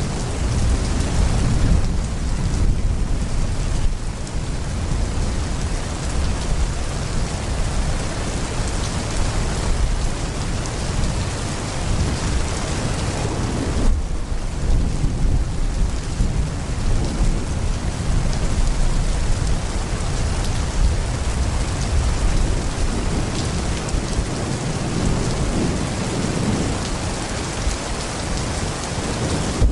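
Heavy rain pouring steadily, with a low, continuous thunder rumble underneath.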